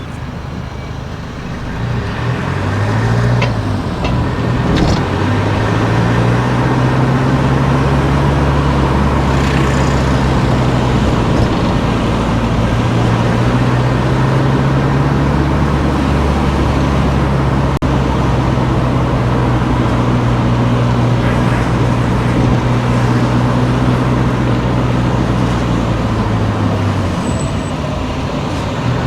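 A car driving on a road: the engine and tyre noise keep up a steady hum. The engine note climbs as it speeds up a few seconds in, holds steady, then eases off near the end.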